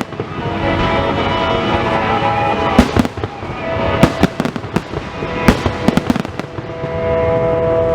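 Fireworks shells bursting in quick clusters of sharp bangs, about three seconds in, again around four seconds and around five and a half to six seconds, over music with long held notes.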